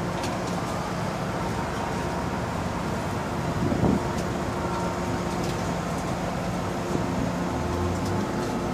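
Inside an MTR M-Train carriage: a steady running hum with several held motor tones that shift partway through. There is a brief, louder low rumble about four seconds in.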